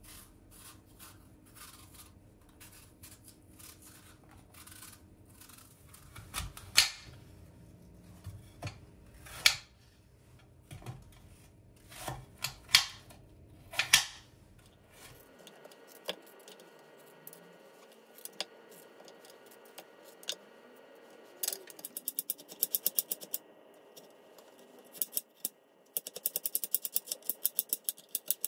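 Kitchen work sounds: scattered knocks and light clatter, then, about halfway through, two fast runs of light clicks.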